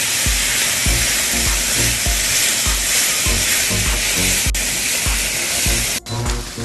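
Sliced sausages sizzling loudly in hot oil in a stainless steel frying pan, over background music with a steady low beat. The sizzle breaks off sharply about six seconds in, and a quieter frying sound takes over.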